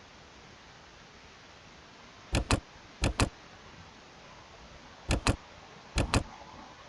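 Computer mouse double-clicks: four pairs of sharp clicks, two pairs in quick succession and two more about two seconds later, over a faint steady hiss.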